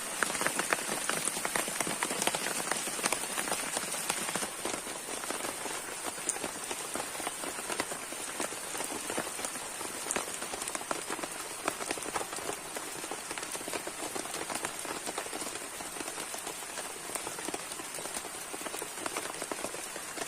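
Rain falling steadily on a camp shelter, a dense hiss of countless small drop impacts, a little heavier in the first few seconds. A thin, steady high-pitched tone runs underneath.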